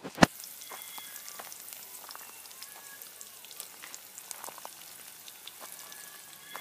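Chopped onions frying in oil in a steel pan over an open wood fire: a steady sizzle with small crackles and spits. A single sharp click just at the start.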